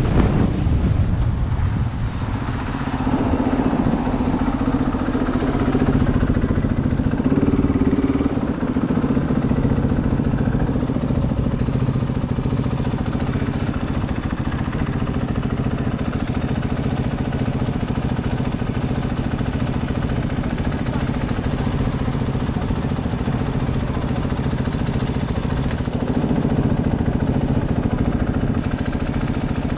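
KTM 500 EXC's single-cylinder four-stroke engine running steadily, with wind noise on the microphone fading out in the first two seconds.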